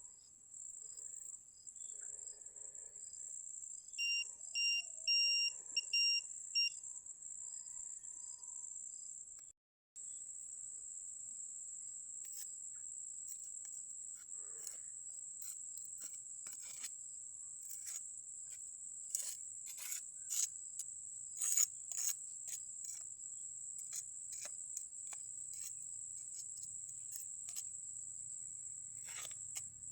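Crickets chirping in a steady high drone, with a quick run of electronic beeps about four seconds in and scattered sharp clicks through the second half.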